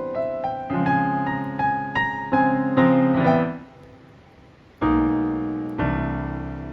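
Background music on piano: a quick run of notes, a short pause about three and a half seconds in, then two sustained chords that ring out and fade.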